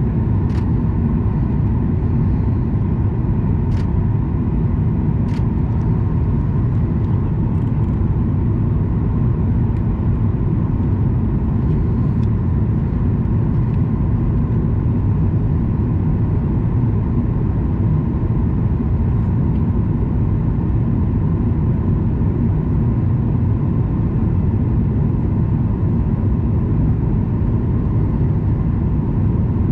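Steady cabin noise of a Boeing 737 MAX 9 with CFM LEAP-1B engines: a constant deep rumble of engines and airflow with a faint steady tone above it. A few faint ticks come in the first several seconds.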